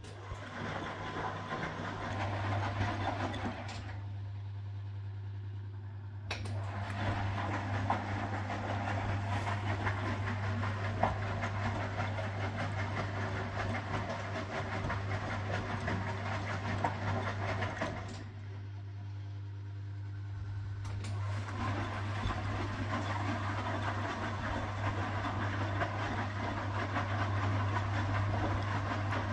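1969 Zanker VA520 washing machine running with a rattling mechanical noise over a steady low hum. The noise drops away twice for a couple of seconds, then starts again.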